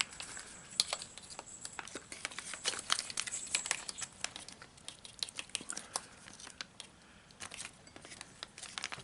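MRE entree pouch crinkling and crackling as it is handled and worked open by hand: a quick, irregular run of small crackles that thins out after about four seconds.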